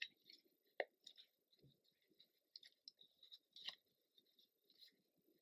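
Near silence with a scattering of faint, short clicks and rustles as paper craft pieces and trim are handled and arranged.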